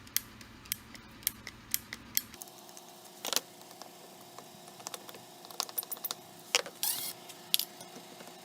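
Scattered sharp clicks and light metallic rattles from hand-tool work on a Jeep Wrangler JK door-handle assembly, a driver with a T10 Torx bit and small metal parts being handled, with a couple of short rattling bursts.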